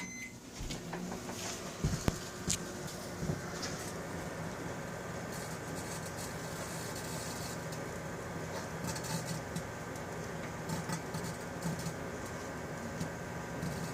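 Microwave oven running: a steady hum from the magnetron and fan, with a short keypad beep at the start and a few sharp clicks about two seconds in.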